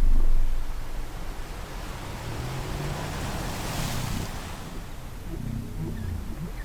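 Ocean surf washing, swelling to a wave about four seconds in, with low, drawn-out whale calls beneath it near the start and again near the end.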